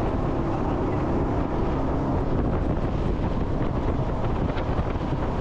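Jet boat running at speed: a steady engine drone mixed with rushing water, and wind buffeting the microphone.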